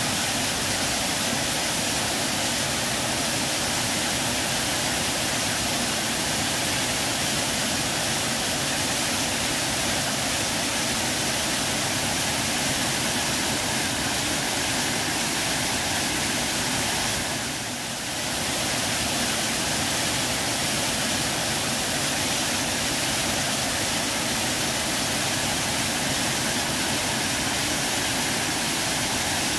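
Waterfall: a steady rush of falling water that dips briefly about halfway through.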